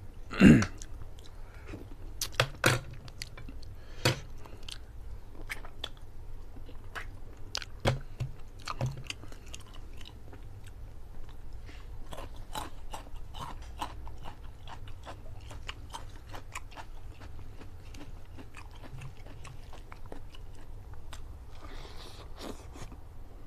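Close-miked chewing and wet mouth clicks of a man eating curried chicken and rice by hand, with a sharp knock about half a second in and a few louder smacks scattered through. Near the end comes a longer sucking sound as he licks his fingers.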